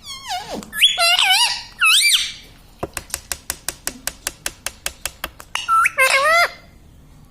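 Indian ringneck parrot giving shrill squawking calls with sharp rises and falls in pitch, then a fast run of sharp clicks, about six a second, for about three seconds, then one more squawk near the end.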